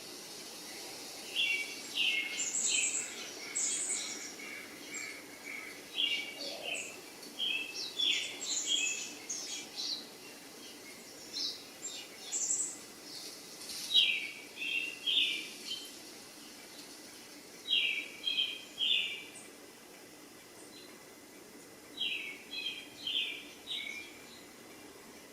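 Small birds chirping in quick groups of three or four short, high notes, repeated every few seconds over a faint steady background hiss.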